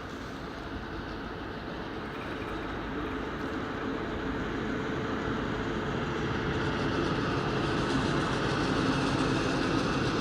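A train running through the station, growing steadily louder as it draws nearer.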